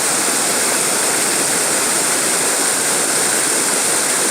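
Steady rushing of falling or flowing water, an even unbroken roar.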